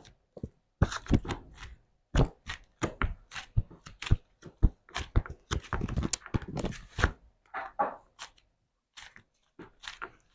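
Slime being squeezed and pressed by hand: a quick, irregular run of crunching clicks and pops with soft thuds, several a second, pausing briefly near the end.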